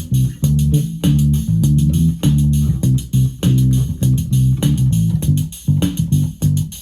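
Electric bass guitar playing a bassline through a Roland Micro Cube Bass RX amp, over the amp's built-in drum-machine rhythm pattern, with steady drum hits under changing bass notes.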